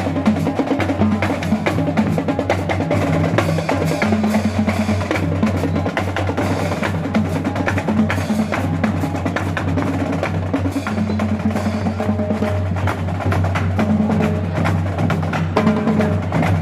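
Loud carnival music driven by percussion: drums and sharp woodblock-like clacks in a fast, steady rhythm over a heavy, steady bass line.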